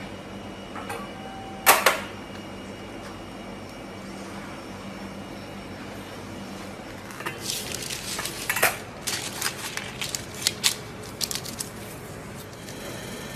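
Metal cutlery and dishes clinking and clattering: a sharp clink or two about two seconds in, then a run of quick clatters through the second half, over a steady low hum.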